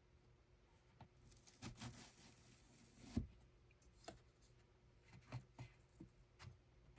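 Faint, irregular wooden clicks and knocks from hand-loom weaving, with one sharper knock about three seconds in.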